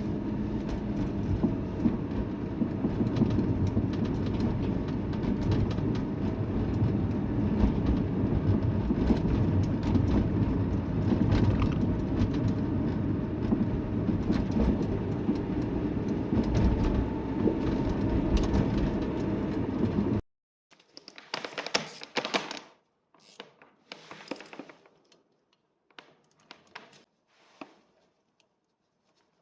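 A car on the move, with steady road and running noise and irregular clunks and rattles, the "gatagoto" noise that the owner traces to dry, dirty brake caliper slide pins. After about twenty seconds it cuts off, leaving a few scattered clicks and knocks.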